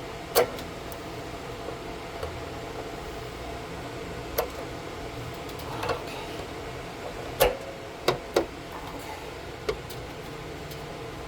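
Scattered sharp metal clicks and knocks, about seven at uneven intervals, from a wrench being worked on the anode rod fitting atop a water heater, over a steady low hum.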